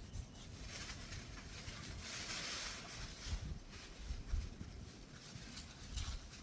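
Wind buffeting the microphone: an uneven low rumble, with a louder rushing hiss of a gust about two seconds in.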